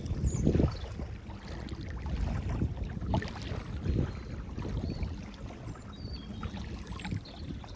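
Gentle water lapping at a lake shore under uneven, gusting wind rumble on the microphone, with a few faint high chirps.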